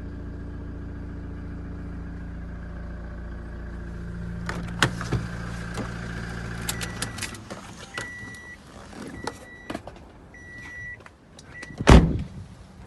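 Toyota Hiace 3-litre turbo diesel engine idling steadily, then shut off about seven seconds in. Clicks are heard around the switch-off, followed by a few short, high electronic warning beeps. Near the end comes one loud door slam.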